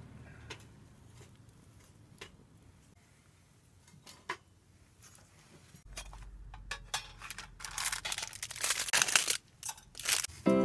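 Scattered small clicks and knocks of things being handled. From about seven seconds in comes a stretch of loud rustling and crackling bursts over a low rumble.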